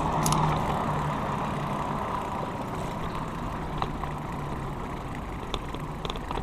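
A motor vehicle engine running steadily, a low hum that is strongest in the first couple of seconds and then fades.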